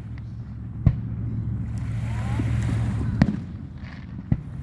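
Aerial fireworks shells bursting: three sharp bangs, about a second in, just past three seconds and near the end, over a steady low rumble.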